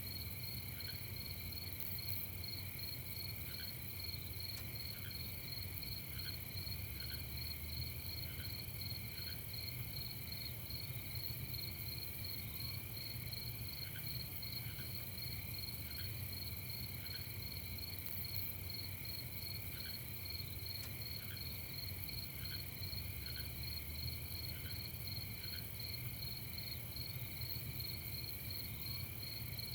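Night chorus of crickets trilling steadily in a fast, even pulse, with short, higher chirps from another insect repeating every second or two over a low, steady rumble.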